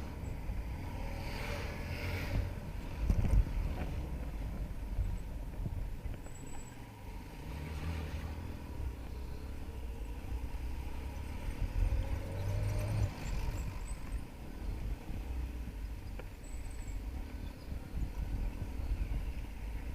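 Motorcycle on the move: a steady low rumble of engine and wind on the microphone, with louder swells of noise about 2 and 8 seconds in.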